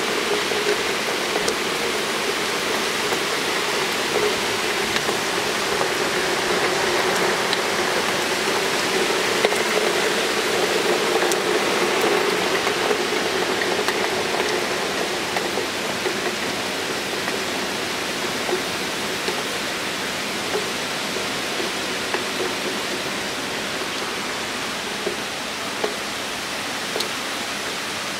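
Heavy rain pouring down in a dense, steady hiss, with scattered sharper drop ticks close by. It swells a little midway and eases slightly toward the end.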